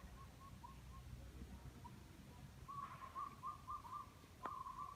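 A bird calling in a series of short whistled notes on one pitch, faint at first and louder about three seconds in, ending with a longer note. A single sharp click comes just before the last note.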